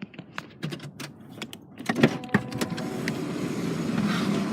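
A few light clicks and knocks, then a motor vehicle's running noise comes up from about halfway in and holds steady, with a brief whine like a small electric motor.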